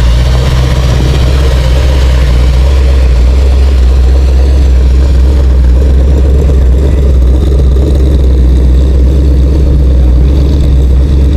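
An old car's engine running at a steady idle, with a loud, unchanging low rumble.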